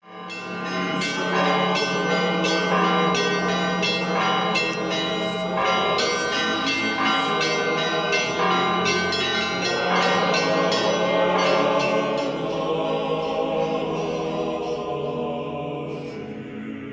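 Orthodox church bells ringing in a quick run of strikes, about three a second, with many bells sounding over a steady low hum, dying away over the last few seconds.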